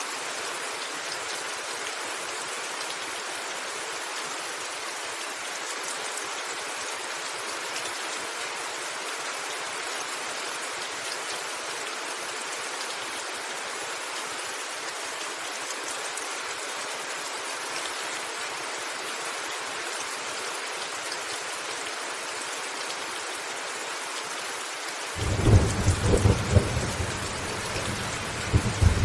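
Steady heavy rain falling on a roof, a dense even hiss. About 25 seconds in, thunder breaks in suddenly and rumbles on in several loud surges to the end.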